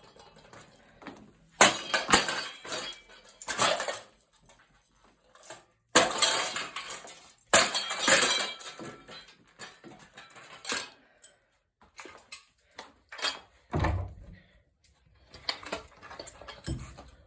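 A cheap Seasons ceiling fan being smashed apart: a series of crashing, clattering metal-and-plastic impacts, with a heavier thud near the end.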